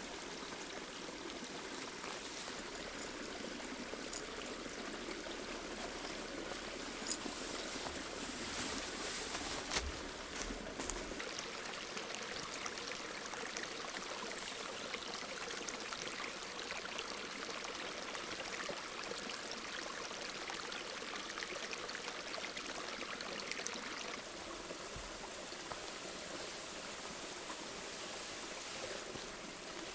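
Creek water flowing steadily, an even rushing and trickling. Two sharp clicks stand out about four and seven seconds in.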